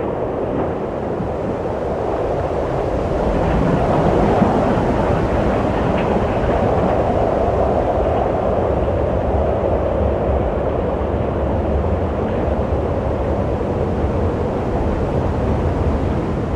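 Wind blowing steadily in a low, deep rush that swells a few seconds in and then holds.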